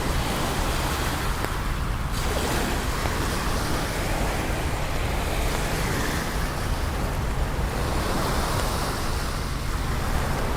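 Steady rain in a city street: an even rushing hiss that holds the same level throughout.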